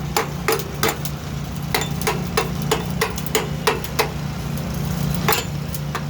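Hammer strikes on steel, a sharp ringing knock about three times a second with a couple of short pauses. Under them is the steady hum of an engine running.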